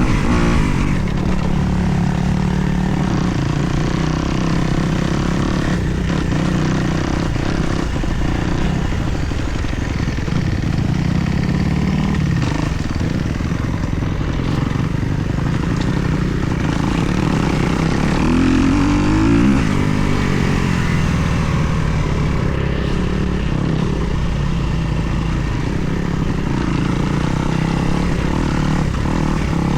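2024 Kawasaki KX250 dirt bike's four-stroke single-cylinder engine running while being ridden, the revs rising and falling, with one clear rising rev about two-thirds of the way through.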